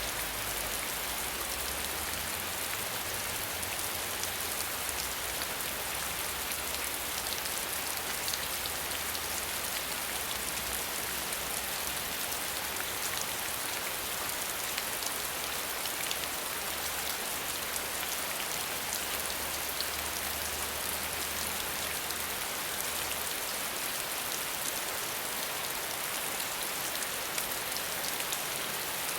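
Steady rain with no thunder: an even hiss of dense, fine drop patter that holds at the same level throughout.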